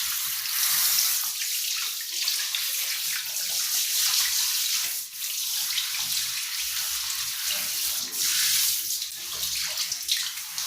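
Running water splashing steadily from a tap or hose as a dog is rinsed of soap during its bath, a fluctuating hiss.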